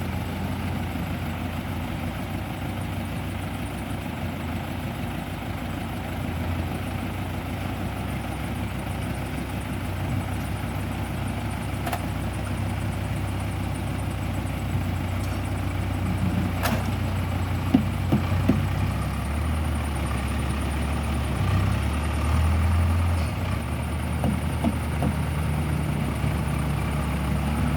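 Diesel engine of the loading machinery running steadily at low revs, with a few sharp knocks in the middle.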